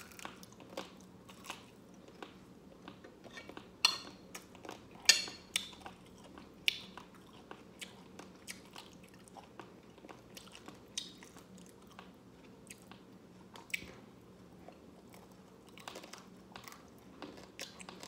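A person chewing and biting crunchy scorched rice crust (dukot) close to the microphone: a string of sharp crunches, the loudest about four, five and seven seconds in.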